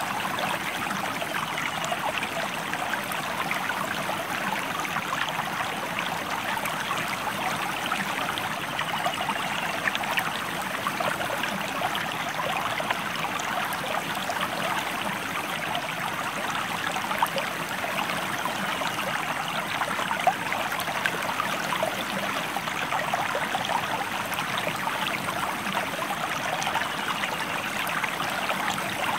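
Stream flowing: a steady rush of running water with many small splashes through it.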